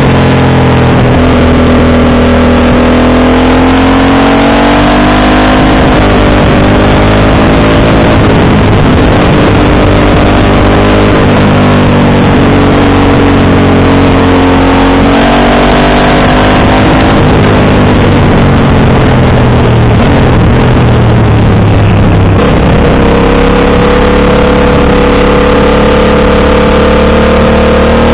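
Motorcycle engine and exhaust running on the road, loud throughout, its pitch rising and falling repeatedly as the revs change through gears, over a steady rushing noise.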